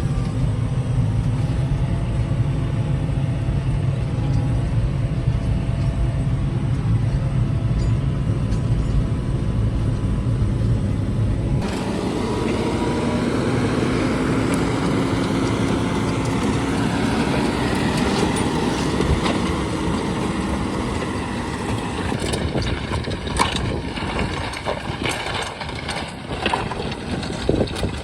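Tractor engine running steadily under load while ploughing. About twelve seconds in the sound changes abruptly to a rougher engine note with a slowly rising pitch, and a series of sharp knocks comes near the end.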